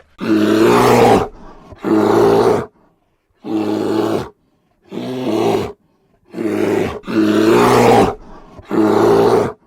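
A large animal giving a series of loud, hoarse calls, each about a second long with short pauses between.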